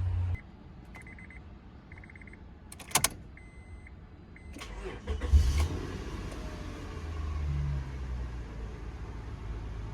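Honda Accord being cold-started: a few short electronic chime beeps and a sharp thunk, then the engine cranks and catches about five seconds in. It rises briefly in pitch and settles into a steady idle.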